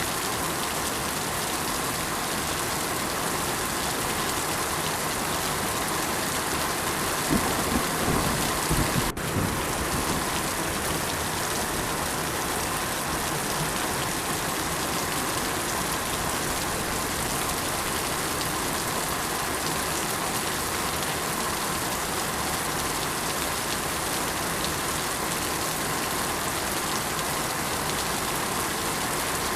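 Steady rain falling, an even hiss, with a low rumble of thunder swelling briefly about a quarter of the way in. Just after the rumble, the sound drops out for an instant.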